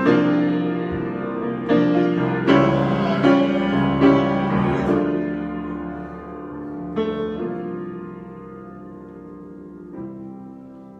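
Solo piano improvising: struck chords that ring and die away, several in quick succession in the first five seconds, then fewer and softer chords, the playing fading toward the end.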